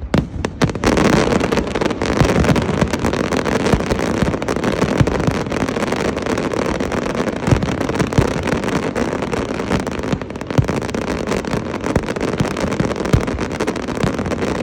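Dense fireworks barrage, with bangs and crackles running together into a continuous rumble that swells about a second in.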